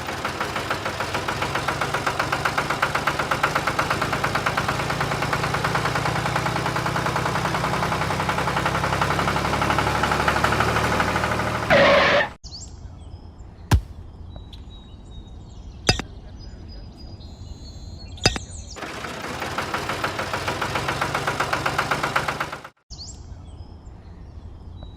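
A small engine running with a fast, even putter, cut off abruptly about twelve seconds in. After a few sharp clicks it runs again for about four seconds and is cut off again near the end.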